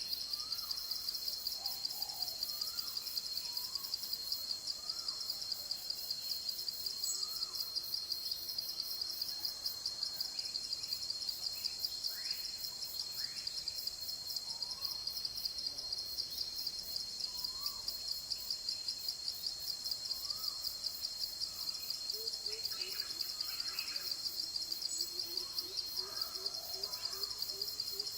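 Forest ambience: a steady, rhythmically pulsing high insect chorus, with scattered short bird chirps and calls over it. From about two-thirds of the way in, a low call repeated in a quick even series joins them.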